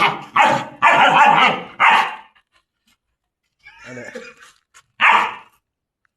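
German shepherd barking: a run of loud barks in the first two seconds, a quieter stretch about four seconds in, and one more bark about five seconds in.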